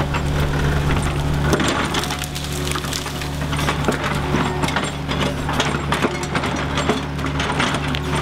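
Tracked excavator's diesel engine running steadily while a tree is dug around and pushed over, with many irregular sharp cracks and snaps of breaking wood over the engine.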